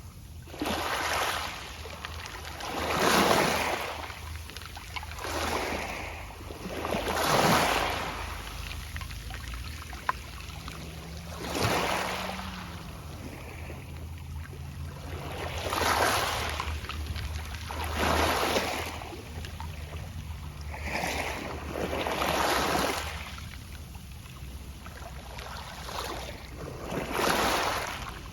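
Small sea waves breaking on a pebble beach and drawing back through the stones, with a hissing, rattling wash that swells and fades every few seconds.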